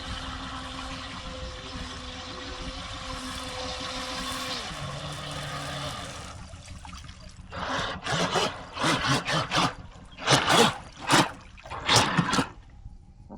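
Radio-controlled boat on the water: a steady motor whine with water noise, then a run of about eight loud, separate bursts of water noise in the second half.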